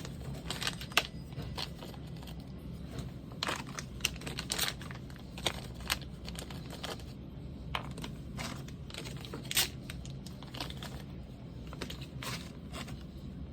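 Handling noise of small nailer rebuild parts being picked up and sorted: scattered clicks and short rustles at irregular intervals, over a steady low hum.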